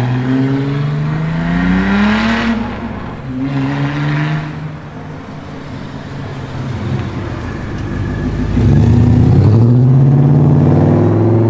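Performance car engines accelerating away, revving up in pitch for a couple of seconds and then backing off, with a short second rev. A louder engine comes in about eight seconds in, rising in pitch and then holding steady.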